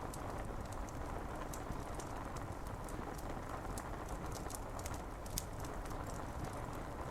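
Steady rain against window glass mixed with a crackling wood fire: an even hiss with many small, sharp crackles scattered through it.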